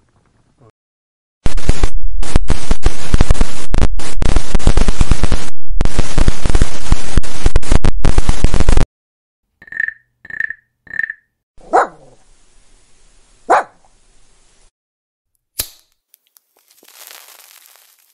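A string of separate sound effects. First comes about seven seconds of extremely loud, distorted noise, broken by brief dropouts. Then three short high beeps evenly spaced, two sharp hits each with a sweeping tail, a click and a fading hiss.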